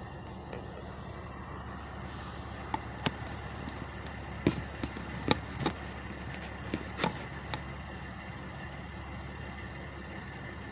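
Steady drone of idling truck engines, with a scattering of sharp clicks and knocks for a few seconds in the middle.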